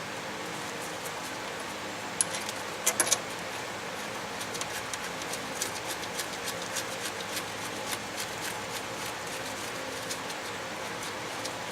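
Light metal clinks of tools and engine parts being handled: one sharp click about two seconds in, a quick cluster of three just before the three-second mark, then a run of lighter irregular ticks over a steady background hiss.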